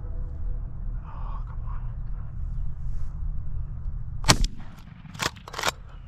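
A single shotgun shot about four seconds in, sharp and loud, followed within the next second and a half by two quieter sharp cracks, over a low steady rumble.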